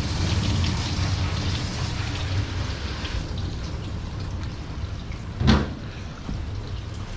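Water spraying from a hose in a dog-wash tub, fading out about three seconds in, over a steady low hum. A single loud knock comes about five and a half seconds in.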